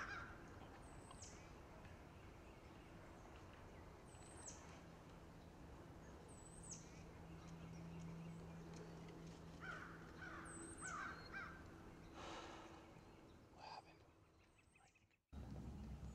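Faint wild bird calls: a thin, high chirp that sweeps downward, repeated every two to three seconds, and a quick series of four or five harsher calls about ten seconds in. The sound cuts out briefly near the end.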